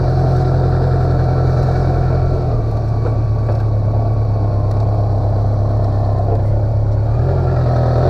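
BMW K1200LT's inline four-cylinder engine running steadily on the move, its pitch dropping a little about two and a half seconds in and rising again near the end.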